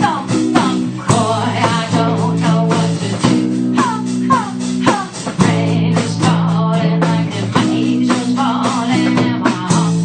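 Blues-rock band playing live, guitars to the fore with sustained chords and bent lead notes over a steady beat, heard through a phone's microphone.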